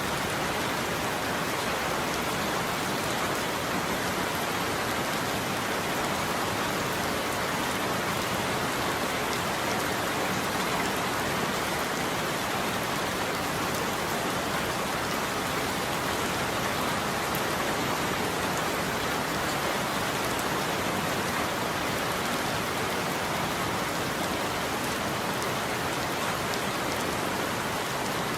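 Steady heavy rain falling on a roof, an even hiss that holds unchanged throughout.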